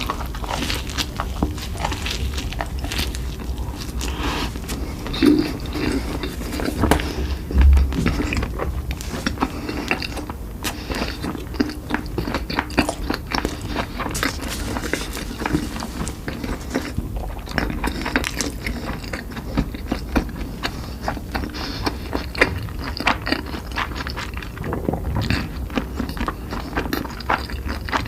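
Close-miked chewing and biting of food, a steady run of small crunches and wet clicks, with a low thump about eight seconds in.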